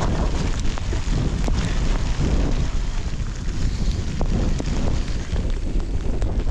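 Wind rumbling on the microphone while a bicycle rides along a dirt trail, with scattered small clicks and ticks from the bike and the ground.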